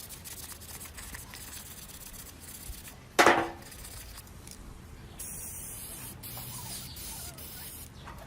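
Spraying hiss: a short loud blast about three seconds in, then a steady high hiss of spraying from about five seconds on.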